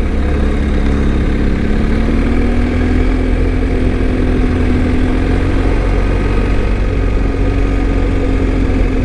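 BMW R1250's boxer-twin engine running steadily, its pitch rising a little over the first few seconds and then holding, over a continuous low rumble.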